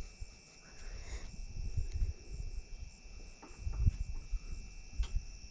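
Steady high-pitched insect chorus, a continuous trill at two pitches, under irregular low rumbles and knocks that are loudest about four seconds in.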